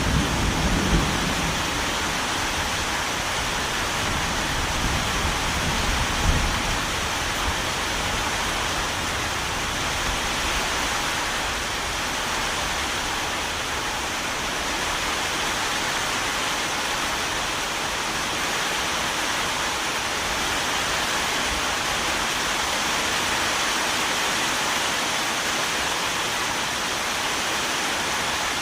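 Steady, heavy rainfall, an even hiss. A low rumble of thunder dies away over the first several seconds.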